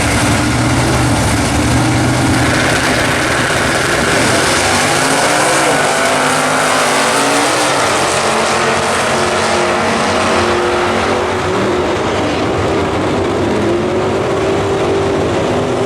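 Drag-racing cars running down the strip at full throttle, the engine note climbing and then dropping back several times as they shift gears.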